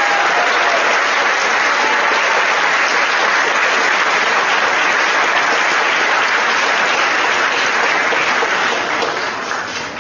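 Audience applauding in a large hall, steady and loud, fading away near the end.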